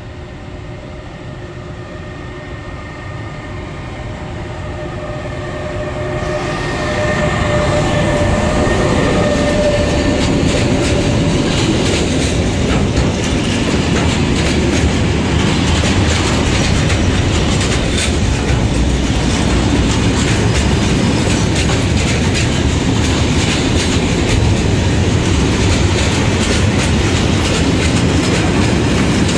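E.412 electric locomotive hauling a freight train, approaching with a steady whine of several tones that grows louder and passes close about six seconds in. The freight wagons then roll by with a continuous rumble and the clickety-clack of wheels over the rail joints.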